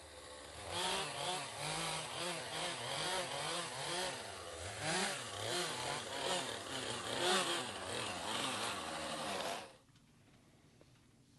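Chainsaw running under load as it cuts wood, its engine pitch rising and falling over and over, then cutting off abruptly near the end.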